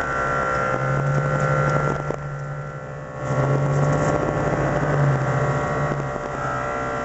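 Vehicle engine and road noise heard from inside the cabin while driving, a steady hum that swells about a second in and again about three seconds in.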